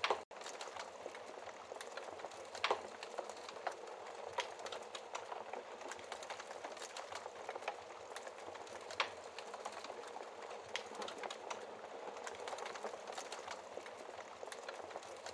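Wood fire burning in a fireplace: a steady soft hiss of flames with constant small crackles and a few louder pops, the clearest about a third of the way in and again past halfway. The sound drops out for an instant just after the start.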